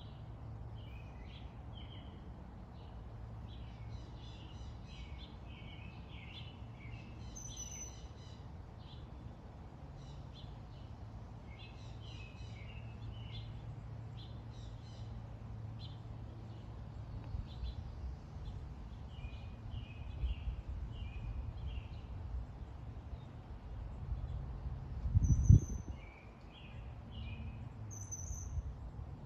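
Several songbirds chirping and singing in short repeated phrases over a steady low rumble. A brief loud low thump comes near the end.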